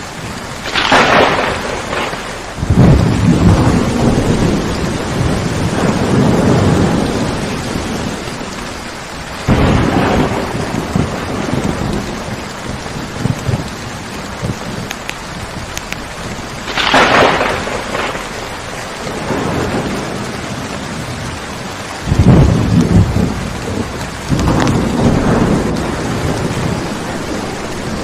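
Steady rain with repeated thunder: sharp cracks about a second in and again around seventeen seconds in, with long low rolling rumbles in between and near the end.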